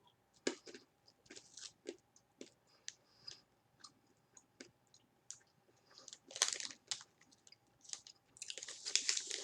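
Someone chewing crunchy blueberry-coated almonds close to the microphone: a string of small, irregular crunches, louder for a moment about six seconds in and again near the end.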